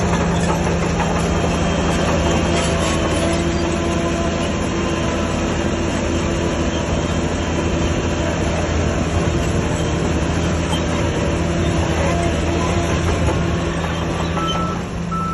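Shantui crawler bulldozer's diesel engine running steadily under load, with the metallic clanking and squeal of its steel tracks.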